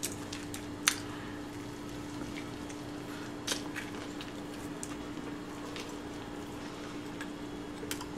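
Wet mouth sounds of biting into and chewing a patty melt on toasted bread, with a few sharp crackles, one about three and a half seconds in. A steady low hum runs underneath.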